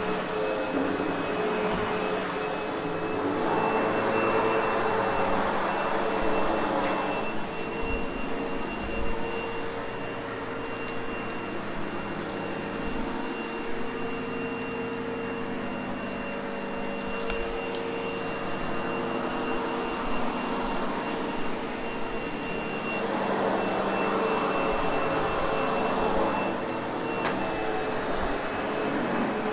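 Sebo X8 upright vacuum cleaner running steadily with a constant motor whine. Its rushing suction noise swells louder twice, a few seconds in and again near the end.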